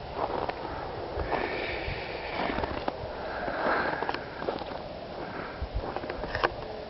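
A person sniffing and breathing in the cold in several short breathy snatches, close to the microphone, over a low steady rumble.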